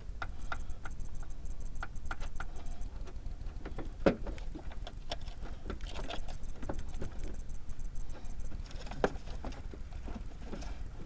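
Ratchet wrench with an 11mm socket clicking in short strokes on a bolt, mixed with scattered metal tool clinks; one sharper clink about four seconds in.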